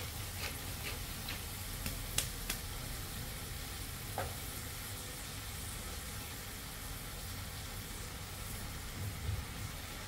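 Vegetables sizzling steadily as they sauté in a wok on a gas burner, with a few sharp clicks from a wooden pepper mill being ground over the pan in the first two or three seconds and one more click about four seconds in.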